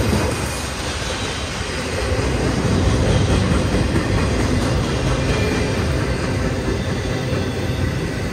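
Double-stack intermodal well cars of a freight train rolling past on the rails: a steady rumble of steel wheels on track, swelling slightly a couple of seconds in.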